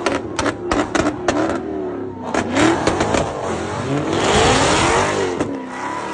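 Car engine revving hard, its pitch climbing and falling several times, after a quick run of sharp hits in the first second and a half. It is loudest and noisiest a little past the middle.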